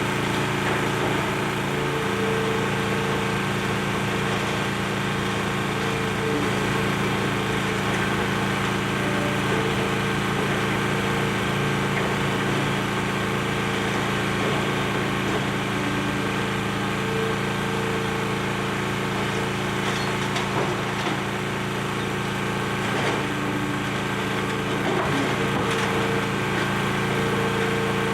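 Demolition excavator's diesel engine running steadily, with a hydraulic tone that comes and goes, as it breaks up building debris with occasional cracking and splintering.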